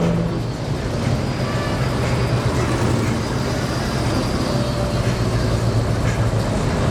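Car engine running steadily at low revs, a constant low hum with no revving.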